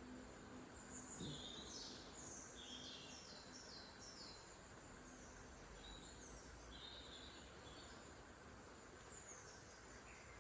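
Faint outdoor nature ambience: a bird singing several bursts of quick, falling high chirps over a steady background hiss.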